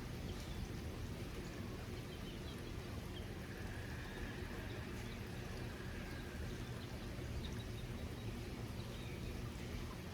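Steady rain, an even hiss of falling water with scattered faint drop ticks over a low steady hum.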